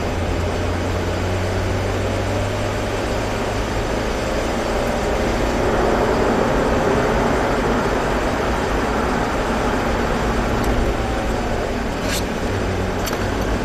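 Mazda 3 1.6 engine heard from inside the cabin, accelerating out of a corner: the engine note climbs in pitch through the middle and eases back near the end. Steady tyre and road noise on a wet track runs underneath, and two short clicks come near the end.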